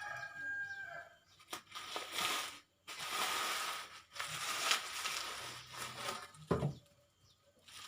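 Packaging being crinkled, crushed and torn open by hand in loud irregular rustles, with a sharp knock near the end. A rooster's crow trails off in the first second.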